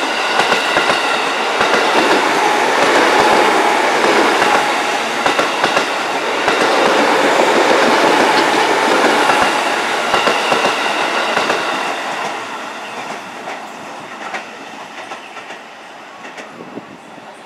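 JR 203 series electric commuter train running past at close range, its wheels clacking over the rail joints. The noise holds loud for about twelve seconds, then fades as the train moves away.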